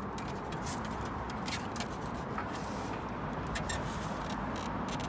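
Steady outdoor background noise with many scattered light clicks and taps from handling tools and parts.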